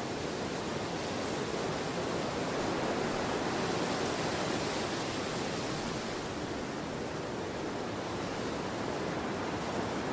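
Storm wind rushing steadily, swelling a little a few seconds in and then easing back.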